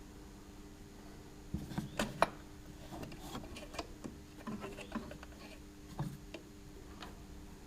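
Light metallic clicks and taps of carburettor throttle linkage parts and return springs being handled and fitted, with a cluster of sharper knocks about two seconds in and scattered taps after.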